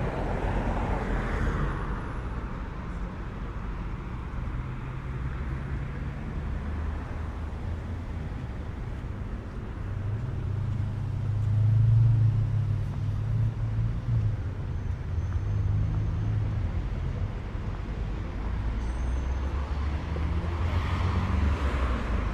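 City street traffic: cars passing with a steady low rumble and tyre noise. About halfway through, a heavier vehicle's low engine drone swells, then fades.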